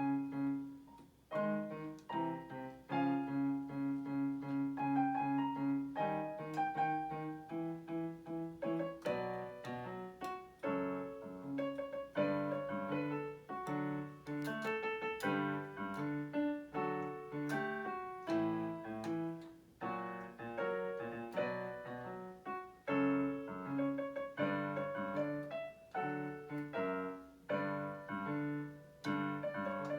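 Electronic keyboard played with a piano sound: a slow piece with held chords in the bass and a melody over them.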